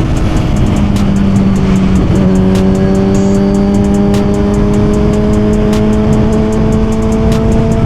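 Suzuki GSX-R1000 inline-four engine running under steady light throttle while riding, its pitch climbing slowly as the bike gains speed, with a brief wobble about two seconds in, over a heavy rush of wind noise. Background music plays along with it.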